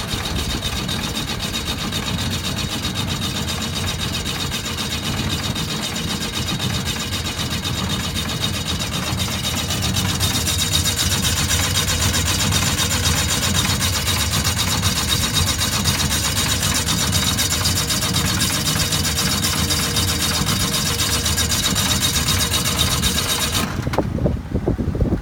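Engine running steadily, a low rumble with a hiss over it. It gets louder about ten seconds in, then cuts off shortly before the end.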